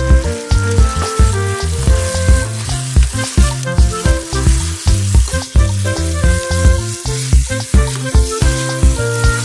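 Background music with a steady beat, over chicken sizzling as it fries in a pan.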